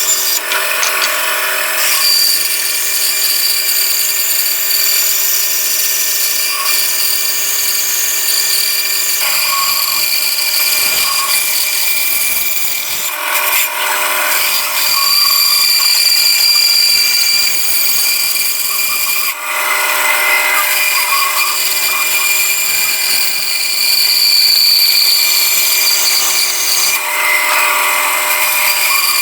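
Electric abrasive power tool running steadily against the steel of a small axe head: a steady motor hum under a dense, hissing grind. The sound jumps abruptly a few times where the footage is cut.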